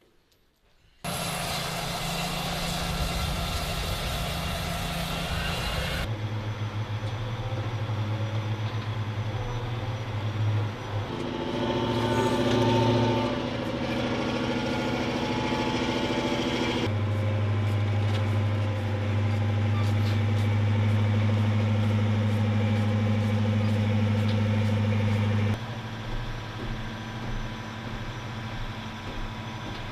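Heavy vehicle engines running steadily, in several clips that cut abruptly from one to the next.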